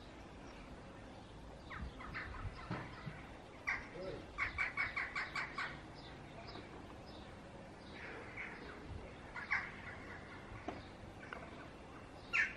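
Birds calling: scattered calls, with a quick run of about seven notes about four and a half seconds in, and a sharper single call near the end.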